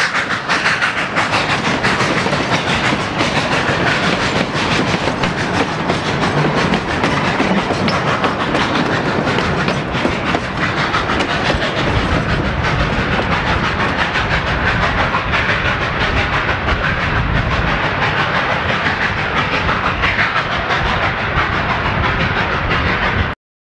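Narrow-gauge passenger cars rolling past close by, their wheels clattering and clicking steadily over the rail joints. The sound cuts off suddenly near the end.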